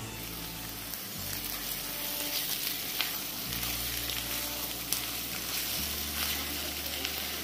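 Diced raw chicken sizzling and crackling as it goes into hot oil with softened onions in a frying pan, stirred with a wooden spatula. The sizzle grows louder about a second and a half in as the meat spreads over the hot pan.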